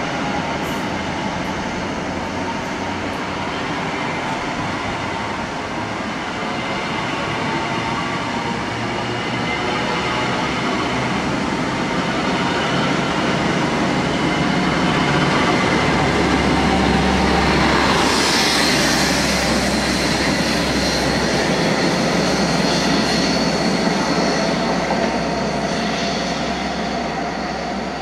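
Diesel passenger train moving through the station, with gliding whining tones over the running noise; it grows louder to a peak about two-thirds of the way in, with a brief hiss at the loudest point, then eases off.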